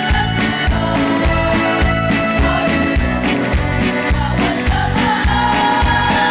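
Choir music with instrumental backing and a steady, quick beat.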